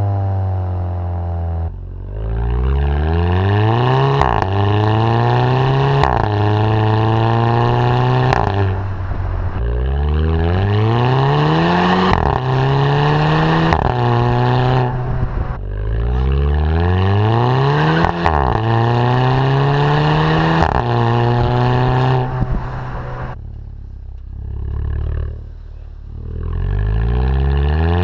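Volkswagen Fusca's turbocharged TSI four-cylinder engine accelerating hard several times, its pitch rising and then dropping sharply at each DSG gearbox upshift. A short sharp crack from the exhaust comes with the shifts: the DSG upshift 'fart'.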